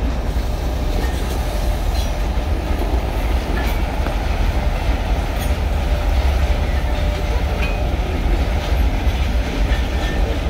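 Freight train of open gondola wagons behind a 2ES6 electric locomotive rolling past, a steady low rumble of wheels on rail with a few faint clicks.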